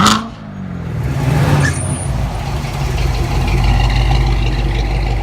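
Car engine blipped high and dropping right back, then running with a loud, steady rumble and a smaller rise in revs about a second and a half in.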